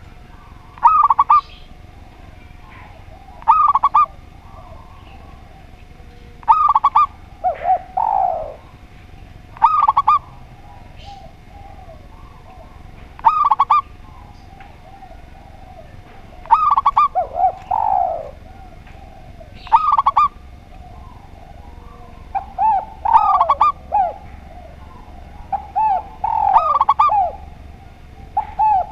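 Spotted dove and zebra dove cooing. Short, bright coo phrases repeat about every three seconds, with lower, falling coos after about 8 and 18 seconds, and the calls come thicker and overlap near the end.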